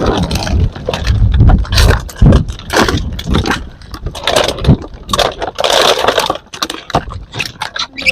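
Empty plastic bottles crinkling and knocking in an irregular run of sharp crackles over a low rumble.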